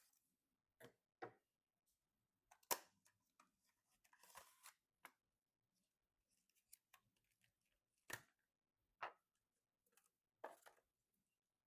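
Faint handling of PC components and their packaging: scattered sharp clicks and taps, the loudest a little under three seconds in, with a short rustle about four seconds in.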